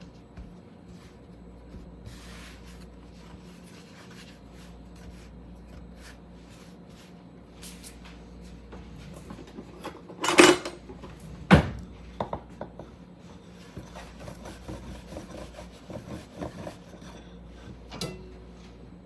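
Rubbing and light tapping of dough and a rolling pin on a wooden board, with two sharp knocks about a second apart near the middle, followed by smaller taps.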